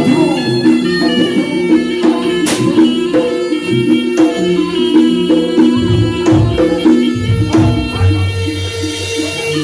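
Jaranan gamelan music played live: hand-drum strokes over sustained, ringing metallic tones in a steady rhythm.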